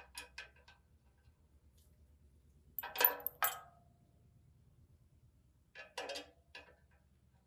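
Metal parts clinking and knocking: a quick run of light knocks at the start, the loudest pair about three seconds in with a short ring, and another pair about six seconds in, over a faint low hum.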